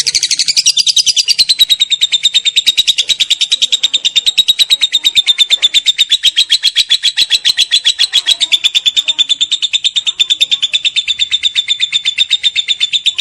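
Lovebird 'ngekek': one long, unbroken chattering trill of rapid, evenly spaced high pulses. Its pitch drops slightly in the first second and then holds steady.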